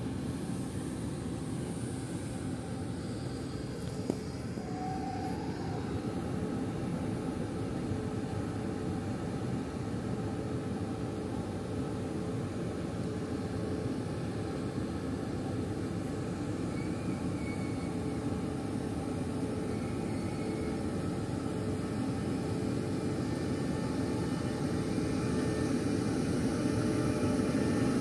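Taiwan Railway E1000 push-pull Tze-Chiang express pulling out of the station, its electric power car running with a steady hum over the rumble of the train on the rails. It grows louder near the end as the power car draws close.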